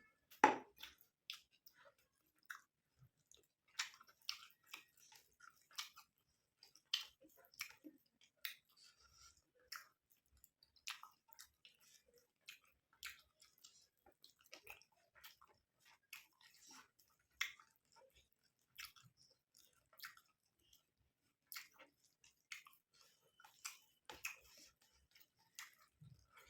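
Close-up chewing of curry and rice: a steady run of short, irregular mouth smacks and clicks, the loudest about half a second in.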